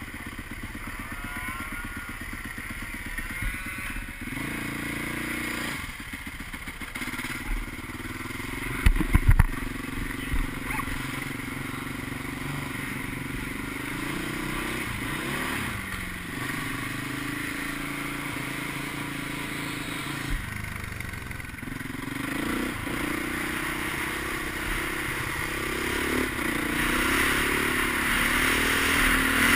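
Husqvarna 510 SMR supermoto's single-cylinder four-stroke engine, heard from on board: it idles with a fast, even firing beat, then revs up and pulls away, running on and getting louder near the end as it accelerates. A few loud knocks come about nine seconds in.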